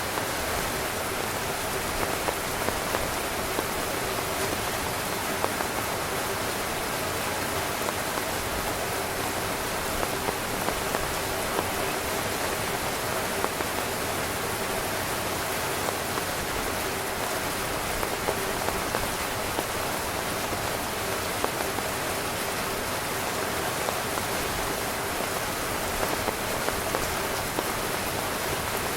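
Steady heavy rain falling on a tent, with frequent single drop hits standing out from the even wash of rain.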